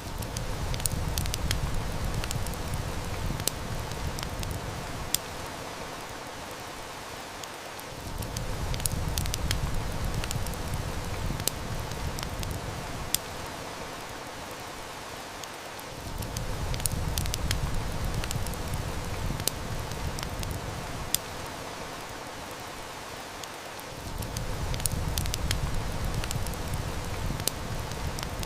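Steady heavy rain hiss mixed with a wood fire snapping in sharp, scattered clicks, over a low rumble that swells and fades about every eight seconds.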